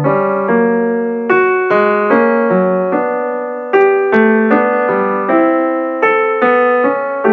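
Background music: a piano playing a slow melody with chords, each note struck and fading.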